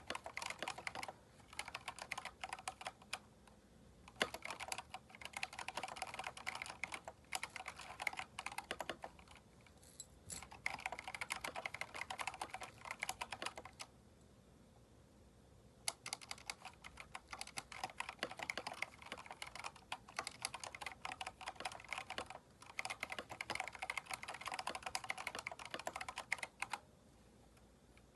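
Fast typing on a Keychron K4 mechanical keyboard fitted with replacement keycaps. The rapid key clicks come in runs broken by short pauses, the longest lasting about two seconds around the middle.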